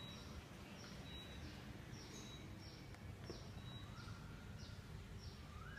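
Faint bird chirping: short high chirps repeated about twice a second, with a few lower rising whistles, over a low steady background hum.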